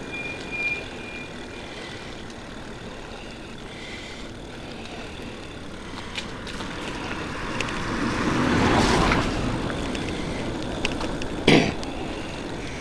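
Steady road and rain noise, with a vehicle passing close on the wet road: its sound swells and fades over a few seconds past the middle. A single sharp knock near the end.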